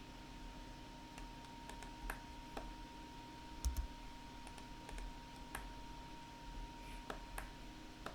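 Scattered, irregular clicks of a computer keyboard and mouse being used to work a 3D modeling program, over a faint steady whine that stops near the end.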